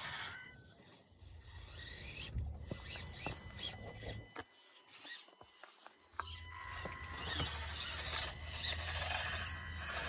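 Axial SCX24 micro crawler grinding over rocks: its small electric motor and gears whine faintly, with scraping and little clicks as the tyres and chassis rub on stone.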